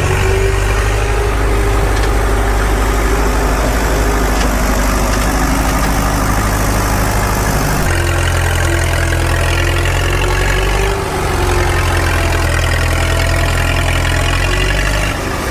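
An engine idling steadily, with a slight change in its note about eight seconds in.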